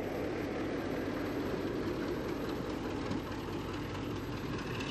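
Steady rumble of a train running along the track, with no separate beats or whistles.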